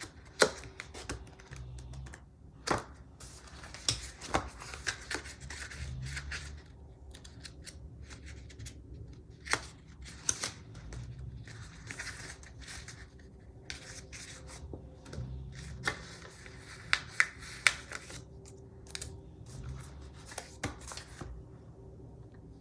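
Paper and sticker sheets being handled on a desk: rustling and scratching with scattered sharp clicks and taps, in a small room.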